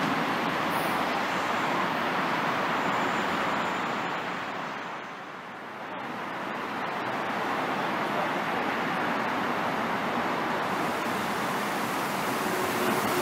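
A Korail electric commuter train running away along the track, its noise fading to a low about five seconds in, then the next electric train approaching, its running noise growing steadily louder toward the end.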